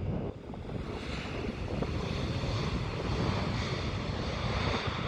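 Jet airliner engine noise: a steady rushing rumble that fills out about a second in, with wind buffeting the microphone.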